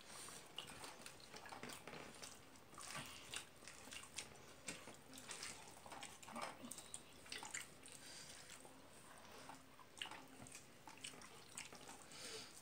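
Faint wet chewing and mouth smacking of someone eating rice with the fingers, with scattered small clicks and squelches as the fingers mix rice and curry on the plate.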